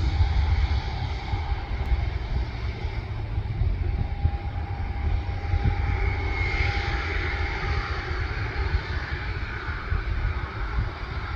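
Airliner engines running: a steady low rumble with a thin whine that holds through the middle.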